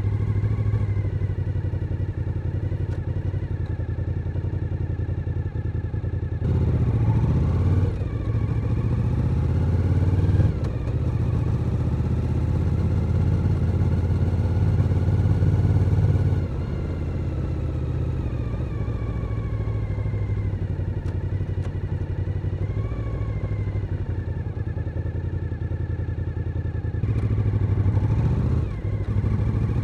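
Suzuki SV1000N's 90-degree V-twin engine on the road, its pitch rising and falling with the throttle. It opens up about six seconds in, eases off about sixteen seconds in, and pulls hard again near the end with a brief dip, as at a gear change.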